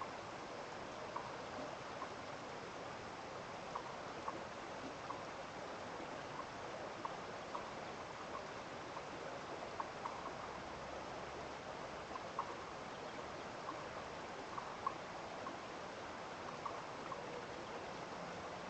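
Steady wash of running water, with small drips plinking irregularly, about one or two a second.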